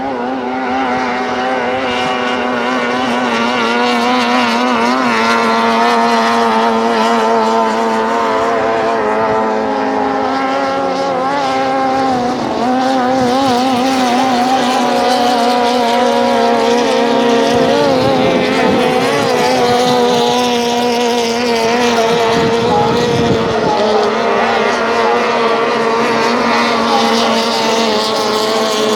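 Outboard motors of racing tunnel boats running at high revs, their pitch wavering up and down as the boats run the course.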